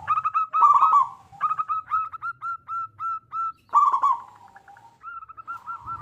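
Zebra dove (perkutut) cooing: a series of short, clipped notes repeated several times a second, breaking into quicker rolling clusters about half a second in and again around four seconds, with a brief pause near the end.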